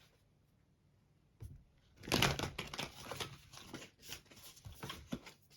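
Oracle cards being shuffled by hand: a soft knock about a second and a half in, then about three seconds of dense, rapid rustling and clicking of the cards.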